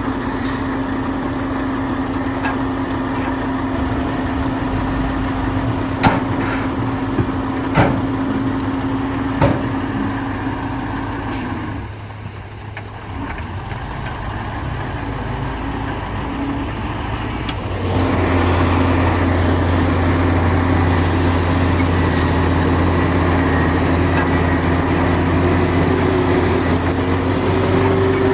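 Heavy diesel earthmoving machinery running steadily, with a few sharp metal clanks between about six and ten seconds in. The engine sound dips briefly around twelve seconds in, then from about eighteen seconds in becomes louder and lower-pitched.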